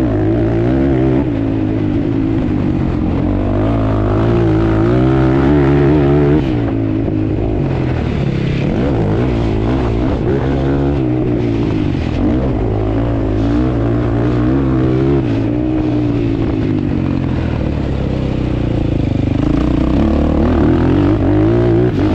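ATV (quad bike) engine running under throttle, its pitch climbing and falling as the rider opens and closes the throttle. It climbs a few seconds in, drops back, and climbs again near the end.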